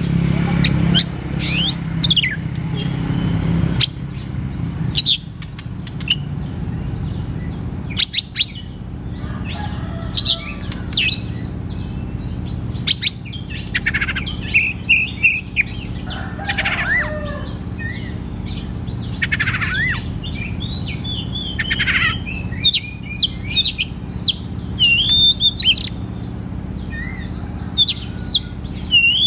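Oriental magpie-robin singing: a varied run of whistled notes, quick rising and falling sweeps and short chirps, over a steady low hum.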